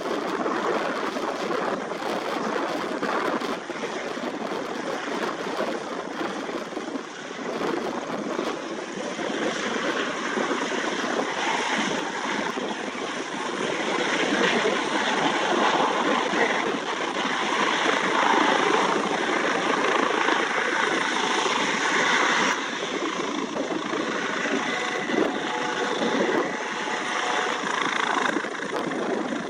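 Airbus H135 (Juno HT1) helicopter's turbines and rotors running. The sound grows louder through the first half, then drops abruptly about two-thirds of the way through.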